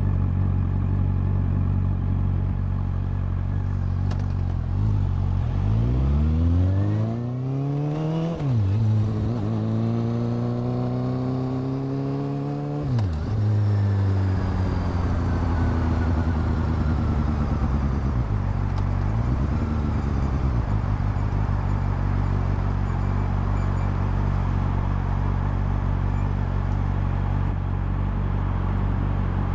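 Honda CB400 Super Four's inline-four engine and exhaust: a steady low note, then about five seconds in it revs up through the gears, with a shift that briefly drops the pitch, and about halfway through the throttle closes and the revs fall back to a steady low note.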